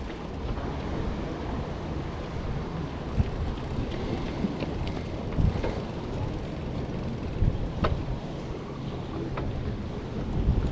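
Wind buffeting the microphone of a moving bicycle, a steady low rumble that swells in gusts, with a couple of faint clicks near the end.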